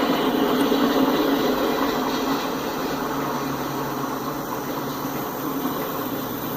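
CSX freight train rolling past, a steady rumble of wheels on the rails that eases slightly after about two seconds.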